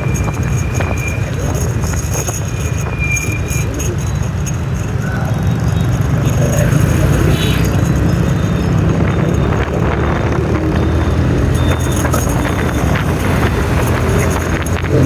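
Motorbike engine and road traffic noise: a steady low rumble with scattered sharper sounds over it.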